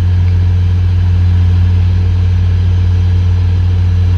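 Diesel passenger locomotive engine running steadily, with a deep, even hum.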